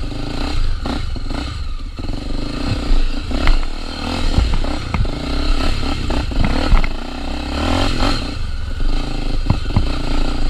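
Honda Tornado 250's single-cylinder four-stroke engine running under load off-road, its note swelling about three-quarters of the way through, with repeated clattering knocks from the bike jolting over rough ground.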